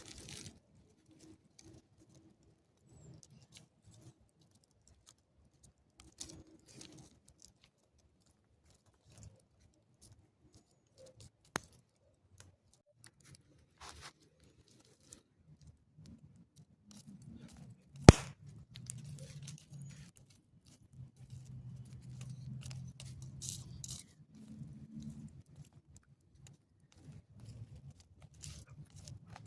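Scattered small cracks and tearing of roasted pinhão shells being peeled by hand, with one sharp crack about 18 seconds in. A low rumble runs through the second half.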